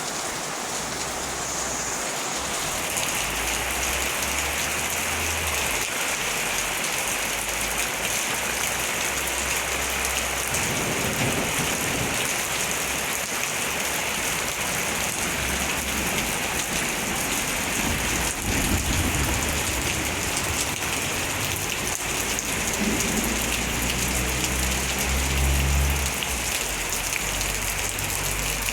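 Heavy rain falling steadily in a thunderstorm, with low rumbles of thunder coming and going, loudest about eighteen and twenty-five seconds in.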